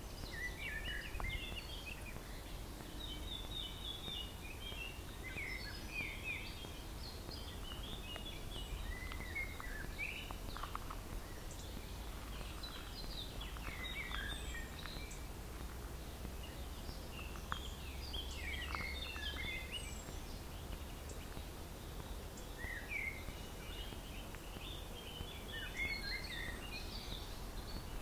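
A songbird singing short phrases of varied, quick high notes, a new phrase every two to four seconds, over a low steady rumble.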